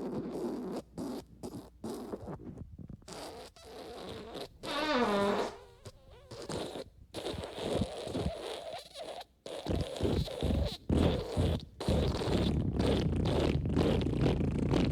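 A rapid series of fart sound effects, short and long rasping blasts separated by brief gaps. About five seconds in, one drawn-out fart falls in pitch. From about twelve seconds in the blasts run together almost without a break.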